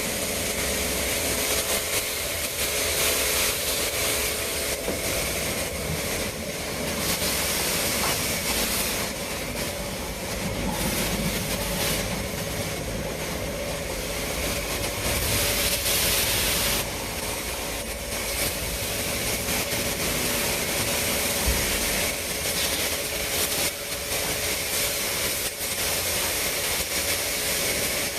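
Pressure washer spraying water, a loud steady hiss that swells and dips as the spray moves over the surface, over the steady hum of the washer's pump motor.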